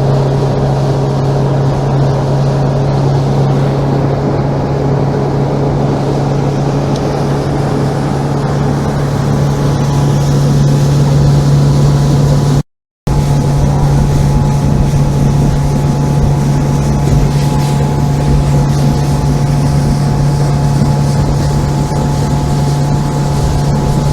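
Motorboat engine running steadily at cruising speed, a loud even drone with the rush of wind and water over it; it breaks off for a moment about halfway.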